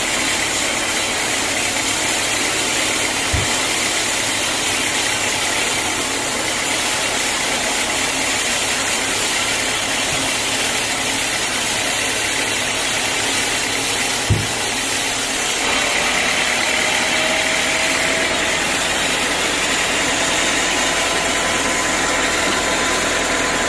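Sawmill machinery running steadily: a dense, even mechanical noise with two short low thumps, one about three seconds in and one just past the middle.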